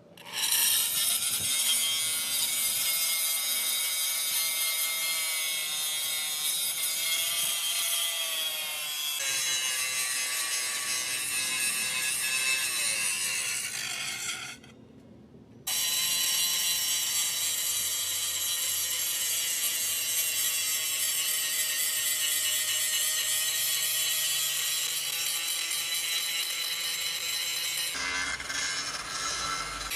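Power tool steadily cutting or grinding metal, a continuous harsh sound with a high ringing whine that wavers in pitch as the load changes. It stops abruptly for about a second midway, then starts again.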